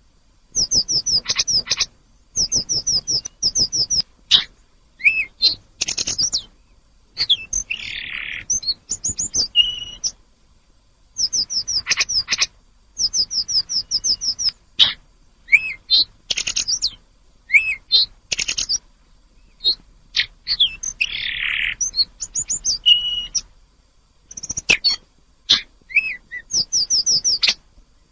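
Tledekan gunung songbird singing: bursts of rapid, high trilled notes about a second long, repeated with short pauses between them, mixed with a few lower, scratchier notes.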